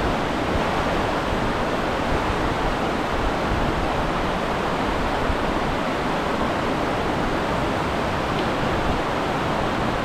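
Water of Multnomah Falls pouring down, a steady, even rushing noise.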